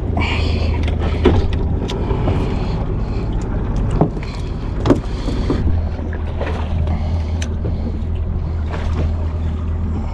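Fishing boat's engine running with a steady low hum, with a few sharp knocks on deck about one, four and five seconds in.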